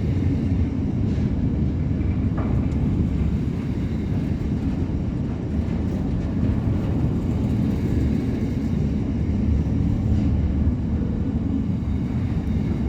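Freight wagons rolling slowly past on the rails: a steady low rumble with a few faint clicks.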